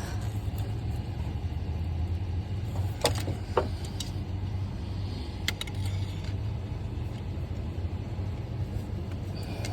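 A steady low hum in the background, with a few sharp metallic clicks and taps, two about three seconds in and one more a little later, from metal tools and small parts being handled while fishing for a dropped part in an engine bay.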